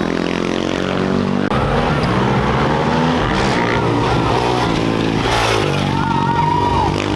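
Off-road race motorcycle engines running and revving at a race start, several pitches rising and falling over one another, with a deeper rumble joining about a second and a half in.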